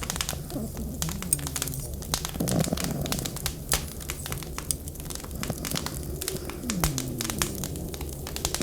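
Wood fire crackling with frequent sharp, irregular pops, over a cat's low, continuous purring.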